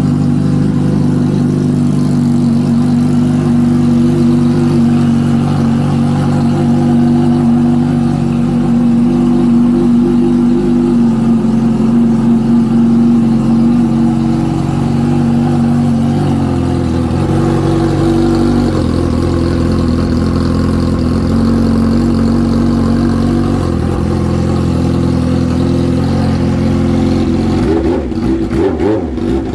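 Kawasaki Ninja H2's supercharged inline-four idling after a cold start, its idle speed stepping up and down a few times. The note changes and turns choppier near the end.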